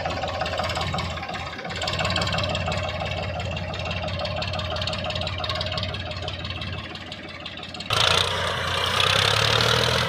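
Diesel engine of a heavy tractor-type machine running steadily. About eight seconds in the sound jumps suddenly louder and harsher, as if the engine is put under load or revved.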